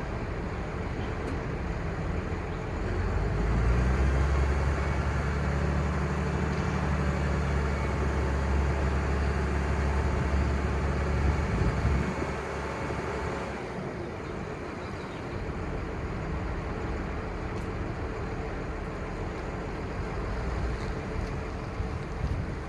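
Crane truck's 5.9L Cummins six-cylinder turbo diesel running. Its revs pick up about three to four seconds in, hold higher for several seconds, then drop back to a lower steady run.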